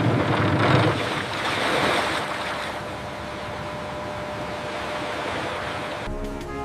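Sea waves washing and surging, loudest with a low rumble in the first two seconds, then settling into a steady wash. Music comes in just before the end.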